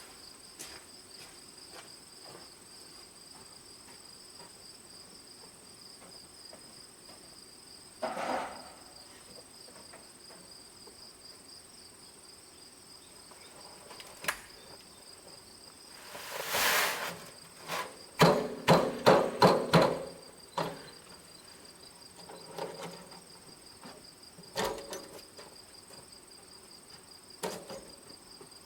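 Crickets trilling steadily in two high pitches, with scattered knocks and scrapes from work on the site. About two-thirds of the way through comes a quick run of about seven sharp knocks.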